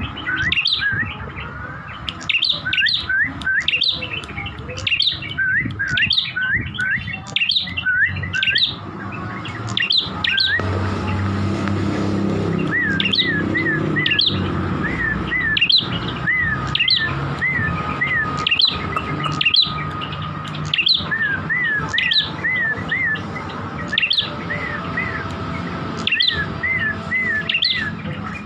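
Prenjak kepala merah (a small prinia-type songbird) calling in a long, fast series of sharp notes that sweep down from high, mixed with short repeated chirps, two to three a second, over a low background rumble.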